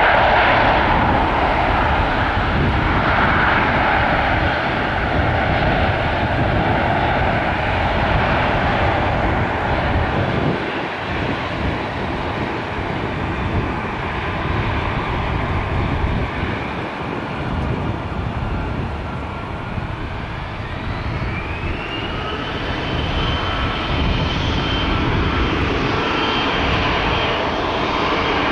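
Jet engines of a Boeing 777-200ER airliner running with a loud, steady rushing noise. About twenty seconds in, a whine rises in pitch and then holds steady.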